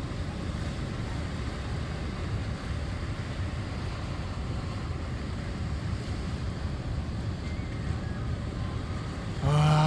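Steady rush of sea waves breaking on the shore, mixed with wind buffeting the microphone.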